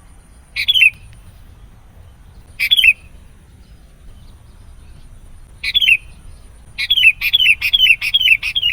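Sooty-headed bulbul (kutilang) calling, each short call falling in pitch. Three single calls a couple of seconds apart, then a quick run of about six calls near the end.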